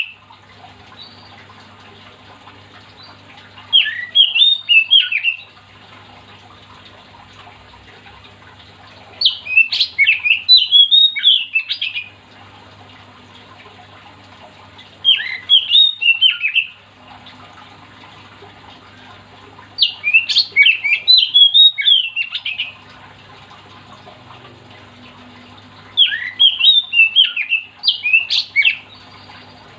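Oriental magpie-robin (kacer) singing in five loud bursts of fast, varied whistled and chattering phrases. Each burst lasts a couple of seconds, with a pause of a few seconds between them.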